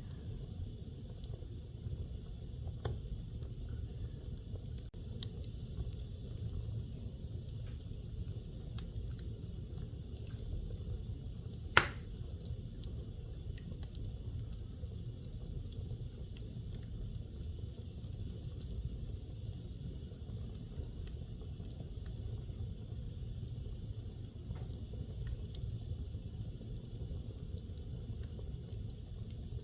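Wood fire burning in a fireplace: a steady low rumble with a soft hiss and scattered small crackles, and one sharp, loud pop about twelve seconds in.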